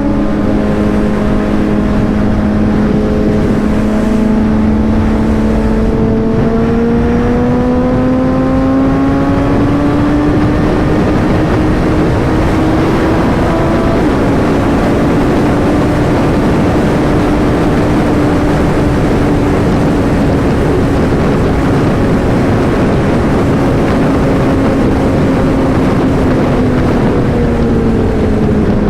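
Motorcycle engine running on the road under a heavy rush of wind noise. Its pitch climbs gradually as the bike speeds up, holds steady at cruise, then drops near the end as it slows.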